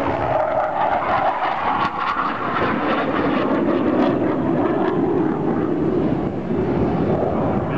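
RAAF BAE Hawk 127 jet trainer's Rolls-Royce Adour turbofan, a loud jet roar as it passes, its pitch dropping a couple of seconds in as it goes by.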